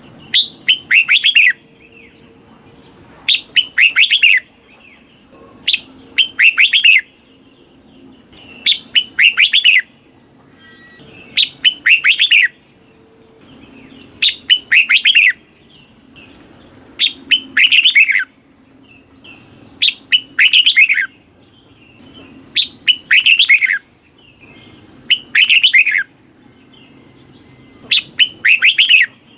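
Red-whiskered bulbul singing: short, loud phrases of quick falling chirps, repeated about every three seconds. It is a song used to provoke and excite caged bulbuls.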